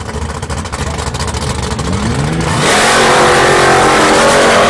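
Drag car's engine rumbling at the start line with a short rising rev, then about two and a half seconds in it launches at full throttle, suddenly much louder, and pulls hard down the strip.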